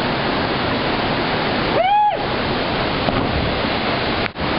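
Waterfall rushing steadily. About two seconds in, a short cry rises and falls in pitch above it, and the rush drops out for an instant near the end.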